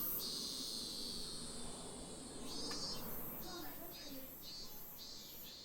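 Insects chirping outdoors in regular high-pitched pulses, about two a second, with a steadier high buzz in the first second or so, slowly fading.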